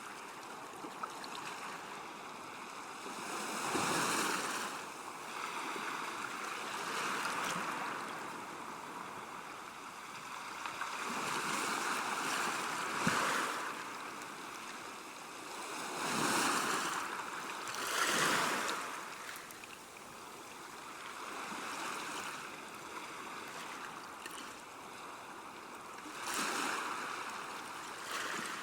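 River water at a bank, flowing and lapping as a steady wash that swells and eases every few seconds.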